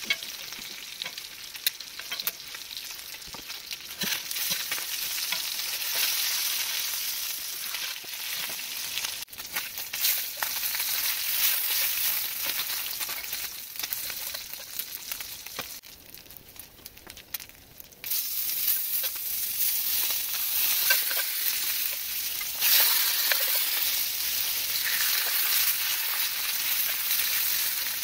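Catfish and shrimp sizzling hard in hot oil in a cast iron skillet, with a metal spoon and spatula clicking and scraping on the pan now and then. The sizzle drops quieter for a couple of seconds past the middle, then comes back louder.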